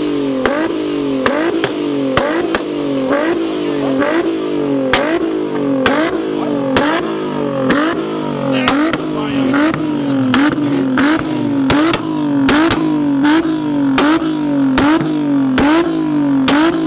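Infiniti G35's V6 revved hard against the limiter over and over, about two pulls a second. Each rise in pitch ends in a sharp exhaust pop or bang, the kind of tune that shoots flames.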